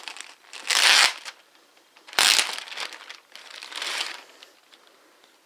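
Packaging bag crinkling as it is handled and opened, in three bursts of rustling: the loudest about a second in, another just after two seconds, a weaker one near four seconds, then it stops.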